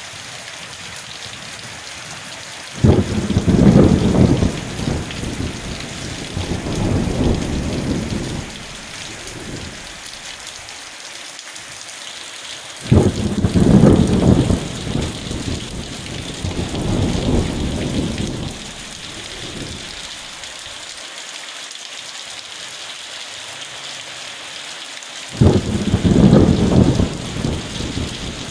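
Steady rain hissing, with thunder rolling three times: each low rumble starts suddenly and dies away over about five seconds.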